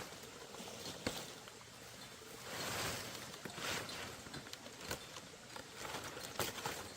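Scattered light knocks and clicks over a rustling, hissy background, with a swell of rustling about halfway through.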